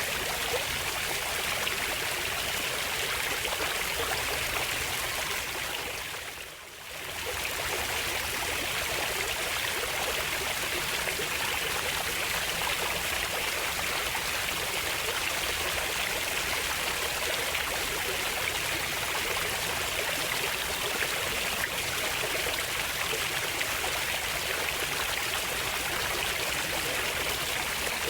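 Running water flowing steadily. About six seconds in it fades down briefly and comes back up.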